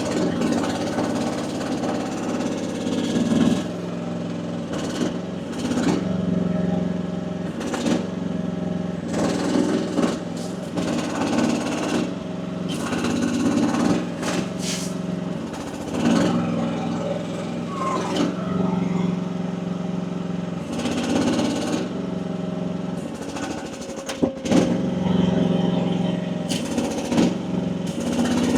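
Mini excavator's small engine running under hydraulic load as the boom and bucket are worked, its sound swelling and sagging again and again. With the relief pressure set to 2700 psi it labours and sounds like it wants to die, a sign the setting is too high for the engine.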